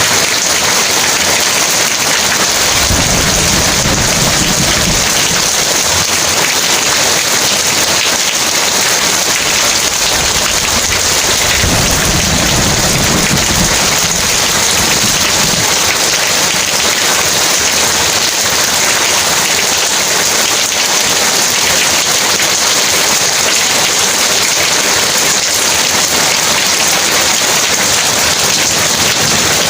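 Heavy rain pouring steadily, with two low rolls of thunder, one about three seconds in and another around twelve seconds in.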